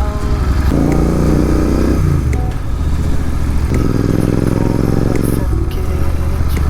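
Royal Enfield Interceptor 650's parallel-twin engine running as the motorcycle is ridden, its note growing fuller twice for a second or two.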